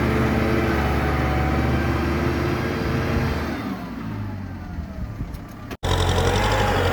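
Tractor engine working in mud. Its pitch and loudness fall away from about three and a half seconds in, then the sound cuts out abruptly for an instant just before six seconds and comes back at full level.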